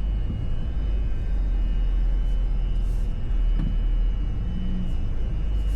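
Low steady rumble of a Chevrolet Tahoe heard from inside the cabin as it runs at low speed, backing slowly, with a faint steady high tone throughout and a brief hiss about three seconds in.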